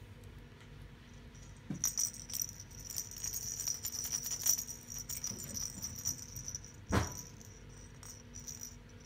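Small metal pieces jingling and rattling in quick shakes, starting about two seconds in and running for several seconds, with a single knock about seven seconds in.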